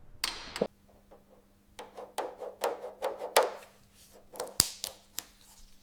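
Scattered taps, clicks and knocks of hand-tool work on metal, about a dozen irregular strikes, with a short swish just after the start and a faint steady hum from about a second in.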